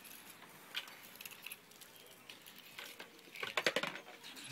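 Faint handling noise of small dry nature finds being put into a small basket: a short rustle about a second in and a quick run of light clicks and rustles near the end.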